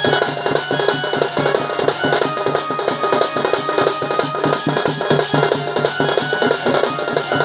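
Live Sambalpuri folk music led by fast, dense drumming, with a few held tones over the beat.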